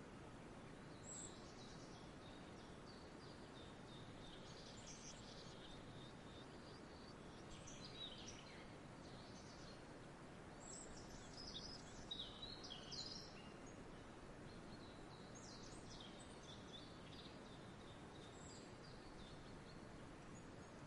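Faint outdoor ambience: a steady low background hiss with small songbirds chirping and calling on and off, busiest around the middle.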